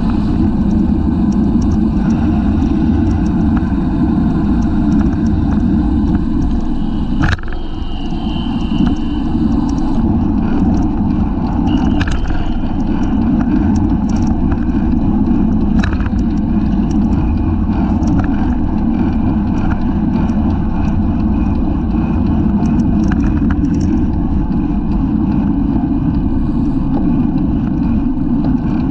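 Steady, loud wind rush buffeting a bicycle-mounted camera's microphone at racing speed, with a few sharp clicks or knocks, the strongest about seven seconds in.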